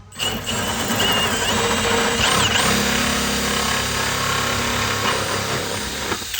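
Power drill with a hole saw cutting into a plastic 5-gallon bucket, running steadily under load; it starts and stops abruptly.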